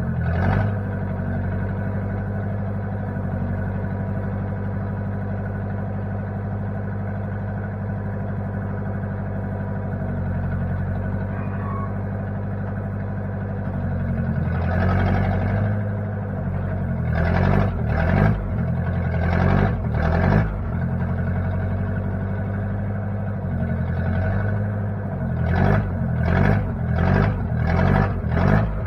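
Engine of a 1960 Case 540 backhoe running steadily, then surging up in engine speed several times in short bursts, about midway and again near the end.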